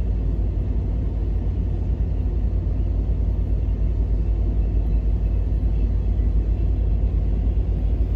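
Steady low rumble of a heavy vehicle, strongest in the deep bass, even throughout with no impacts.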